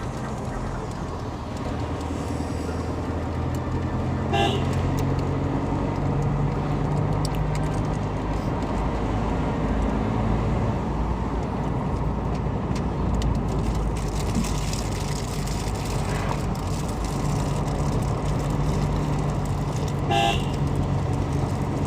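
Car engine and road noise from inside the cabin while driving, with a short horn toot about four seconds in and another near the end.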